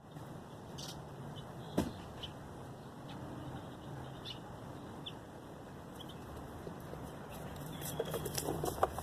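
Work noises from hand tools on go-kart parts: one sharp knock about two seconds in, a few light ticks, then a quick run of clicks and rattles near the end, over a faint steady hum.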